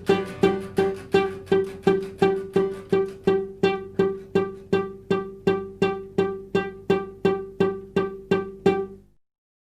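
Acoustic folk music: a plucked string instrument repeats the same notes steadily, about three times a second, each note dying away quickly. It stops abruptly about nine seconds in.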